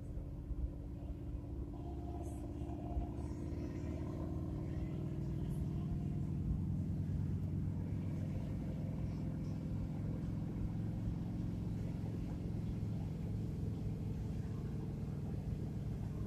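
Car engine pulling steadily in a low gear up a steep grade, heard from inside the cabin with road and wind noise. It grows a little louder over the first few seconds, then holds steady.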